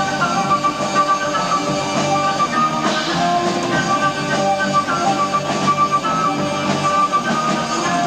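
Amateur live tape of a progressive rock band playing an instrumental passage, electric guitar to the fore over keyboards, bass and drums.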